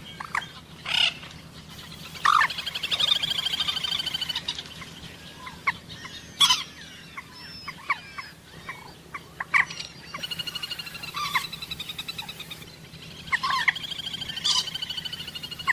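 Common moorhen calling: several sharp, loud single calls, and three long runs of fast repeated notes, about two seconds in, at ten seconds and near the end.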